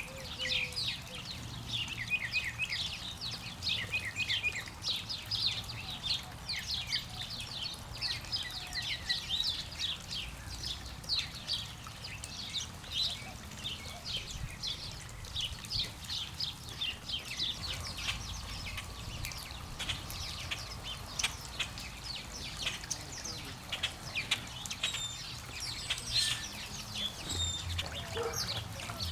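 Many small birds chirping and twittering in quick, overlapping short calls throughout.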